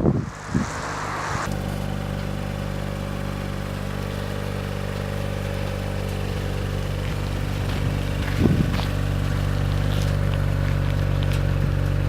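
Audi RS4 Avant's 2.9 TFSI twin-turbo V6 idling steadily with the sport exhaust, settling into the even idle about a second and a half in, with a brief louder sound about eight and a half seconds in.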